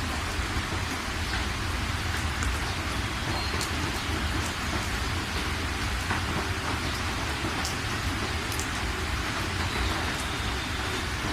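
Steady rain falling, a continuous hiss with scattered individual drop ticks and a low rumble underneath.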